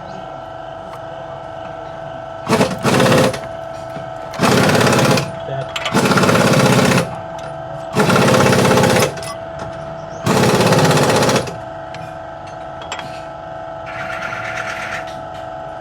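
Pneumatic impact wrench rattling in about six short bursts, each a second or less, over a steady machine hum.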